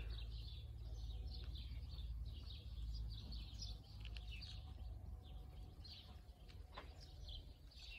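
Small birds chirping and twittering in many short calls, over a faint steady low rumble.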